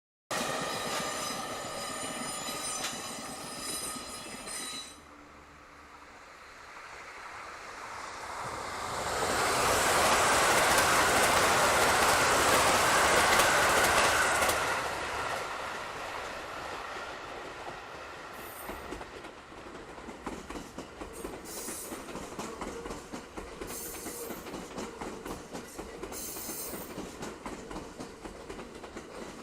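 A train passing on the track. A steady pitched whine with many overtones for the first few seconds gives way to a rush of wheels on rail that swells to its loudest midway and then fades. Toward the end comes a regular clickety-clack of wheels over rail joints.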